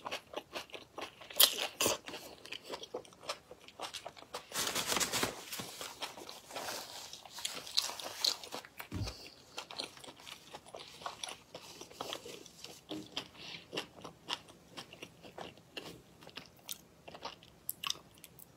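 Close-miked crunching and chewing of a whole shrimp with its shell on. It is densest in the first half and thins to scattered chews near the end.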